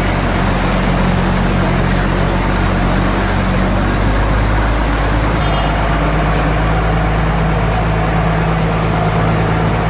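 An engine running steadily at a constant pitch, under a dense, even wash of noise.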